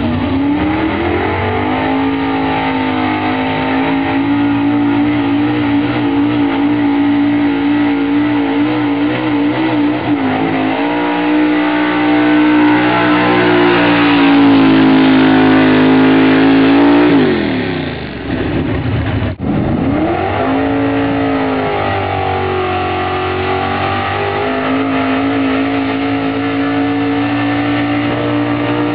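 Altered stock-class pulling truck's engine running hard at high revs under load, its pitch holding steady and edging up. About 17 seconds in the revs fall away sharply, then the engine revs back up and holds high again.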